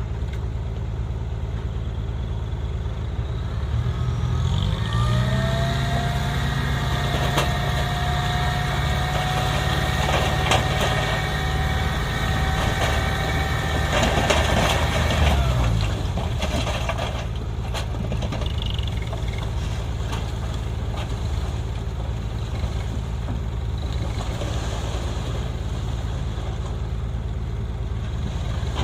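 Isuzu dump truck's diesel engine idling, then revving up and holding high revs with a steady whine for about ten seconds, as when driving the hydraulic hoist to tip the bed. There is some rattling near the end of that stretch before the engine drops back to idle.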